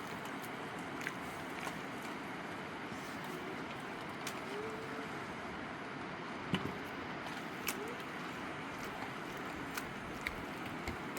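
Steady background hiss with scattered light knocks and taps, one louder knock about six and a half seconds in.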